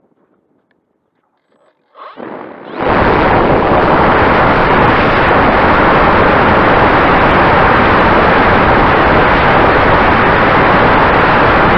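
Strong wind buffeting the microphone: a loud, even rushing noise that starts abruptly about two to three seconds in and holds steady.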